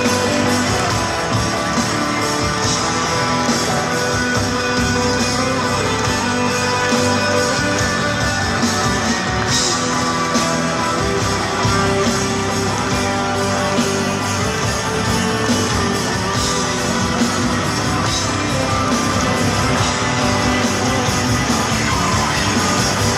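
Live rock band playing an instrumental passage led by guitar.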